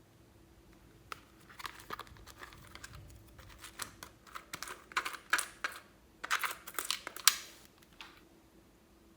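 Glossy slime worked by hand, giving a run of sticky clicks and pops that start about a second in and stop about eight seconds in, loudest between five and seven and a half seconds.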